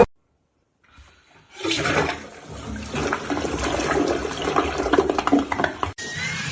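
Rushing water that starts about a second and a half in and cuts off abruptly near the end.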